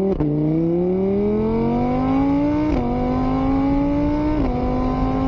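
Motorbike engine accelerating through the gears: the pitch climbs steadily, drops sharply at each gear change (just after the start, about two-thirds of the way in, and again near the end), then holds steady.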